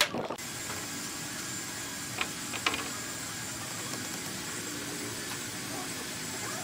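A steady machine-like hiss with a faint high whine, broken by two short clicks near the middle.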